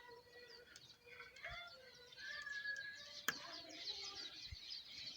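Birds chirping faintly, many short high calls overlapping, with one sharp click about three seconds in.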